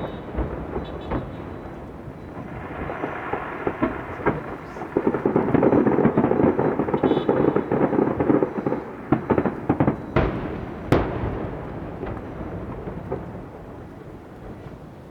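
Fireworks display: repeated booming shell bursts, building to a dense run of overlapping bursts midway, then two sharp bangs, after which it dies down.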